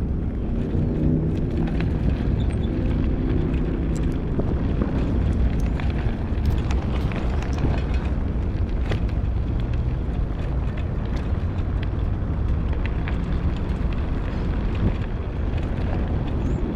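Steady wind rumble on the microphone and tyre noise from an electric bicycle riding along a park path, with scattered small clicks throughout.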